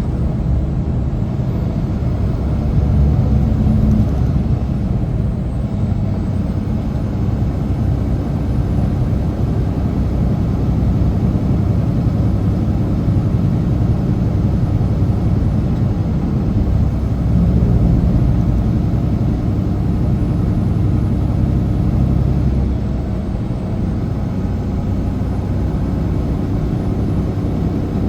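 Semi truck's diesel engine and road noise under load, a steady low rumble that swells slightly now and then.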